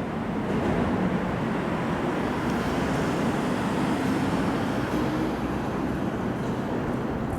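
Hankyu electric commuter train running past on the line, a steady rumble with a faint motor hum.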